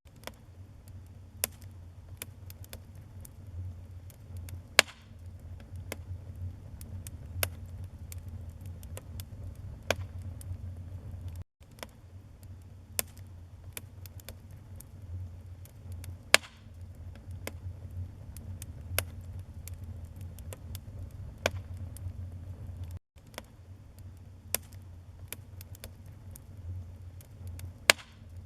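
Wood fire burning in a fireplace: irregular crackles and sharp pops over a steady low rumble of the flames, with a few louder pops. The sound cuts out for an instant twice.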